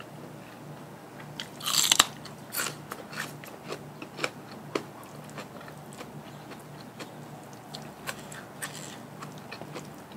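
Close-miked eating: a loud crunching bite about two seconds in, followed by irregular crunchy chewing with small mouth clicks, and another crunchy bite near the end.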